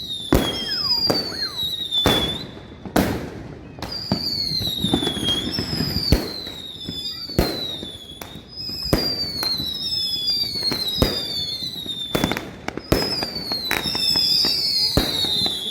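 Fireworks going off: many sharp bangs and cracks at uneven intervals, with a high whistling tone that falls in pitch and repeats about once a second.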